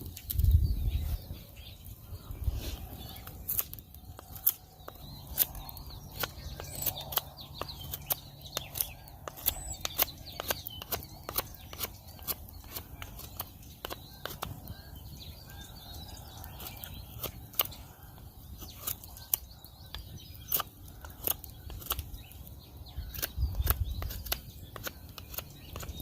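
Wood campfire crackling, with irregular sharp pops and snaps all the way through, faint bird chirps, and a couple of low thuds at the start and about three-quarters of the way in.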